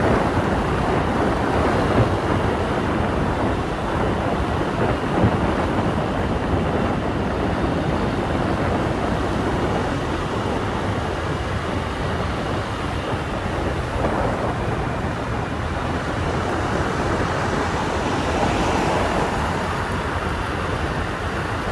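Motorbike riding along, heard from the bike: a steady rumble of engine and road noise, with wind buffeting the microphone.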